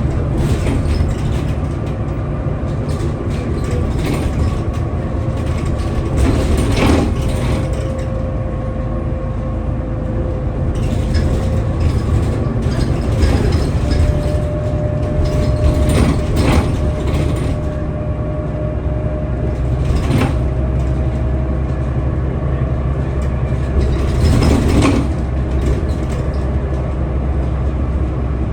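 Scania L94UB city bus running along, with a steady low engine rumble and a thin drivetrain whine that steps up in pitch about halfway through. Frequent rattles and knocks come through it.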